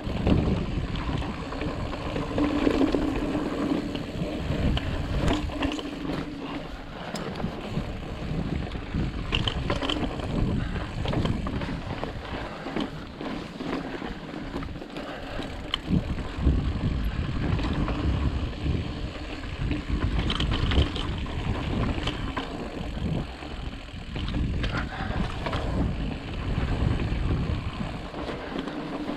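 Ibis Ripley full-suspension mountain bike being ridden over sandy, rocky trail: wind rushing on the microphone and tyres rolling over sand and rock, with frequent clicks and knocks from the bike.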